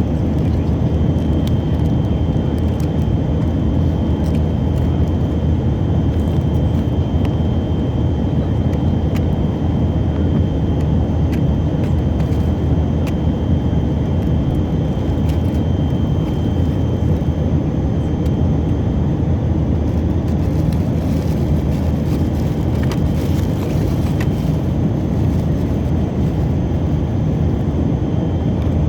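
Steady in-flight cabin noise of a Tupolev Tu-134AK in level cruise: its tail-mounted Soloviev D-30 turbofans running evenly with airflow over the fuselage. A faint high whine holds steady through the first half.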